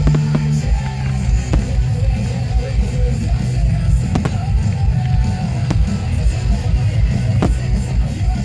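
Loud rock music with electric guitar from the show's sound system, and fireworks bursting with sharp bangs over it several times.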